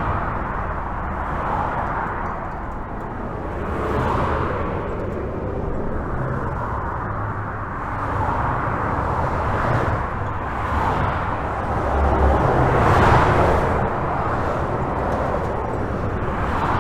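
Highway traffic heard from under a bridge: a continuous rush of tyres and engines with cars passing one after another, each pass swelling and fading, the loudest about twelve seconds in, over a low rumble.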